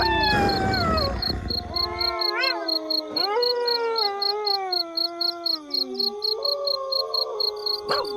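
A pack of wolves howling in chorus: several overlapping howls that glide up and down in pitch and hold long, steady notes. A low rumble lies under the first two seconds, and a faint, regular high chirping runs behind.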